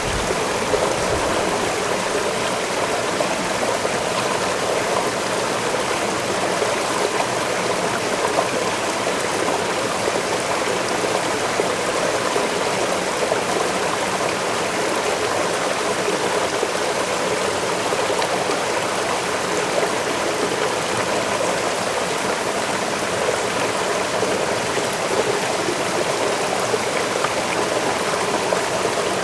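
Waterfall's falling water rushing steadily, an even, unbroken wash of sound.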